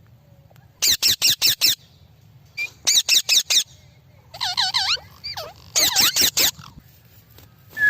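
Indian ringneck parakeet giving shrill calls in quick runs of four or five, three runs in all, with a wavering, squeaky call between the second and third.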